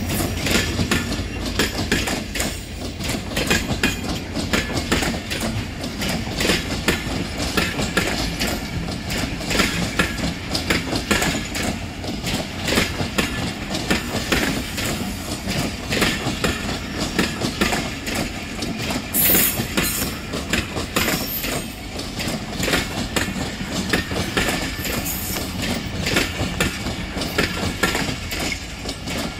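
Passenger train coaches rolling past on arrival at a station, the wheels clicking steadily over the rail joints. There is a short high hiss about two-thirds of the way through.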